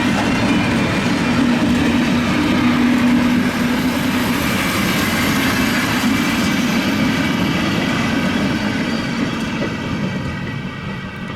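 Steam-hauled special train led by locomotive 23 042 running past, a loud steady rail noise that fades away over the last few seconds.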